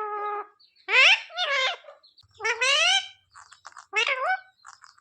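Indian ringneck parakeet talking: about five short, high-pitched speech-like calls in its mimicking voice, each with a bending pitch.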